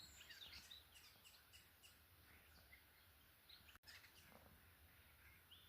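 Faint birdsong: scattered short chirps from small birds, most of them in the first two seconds, and one longer slurred call near the end, over a low steady rumble.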